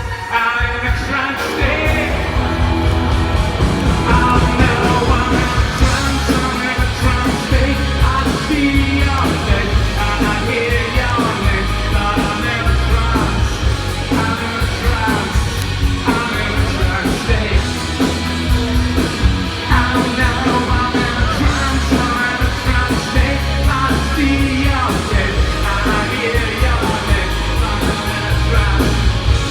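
Live rock band playing a song, with a singer over loud bass and drums.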